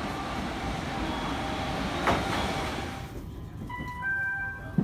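A train running on rails, a steady rumble with a knock about two seconds in. About three seconds in the rumble falls away and a few faint high whining tones remain.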